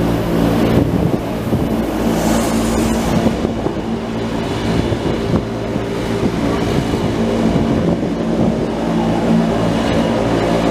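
Electric mountain railcar running along the track, heard from on board: a steady motor hum over the rumble of wheels on rail, with wind noise.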